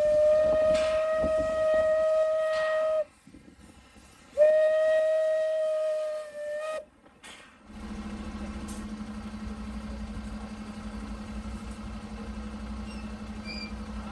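Steam locomotive whistle giving two long blasts on one steady note, the first already sounding and ending about three seconds in, the second a second and a half later. From about eight seconds a steady low engine hum takes over.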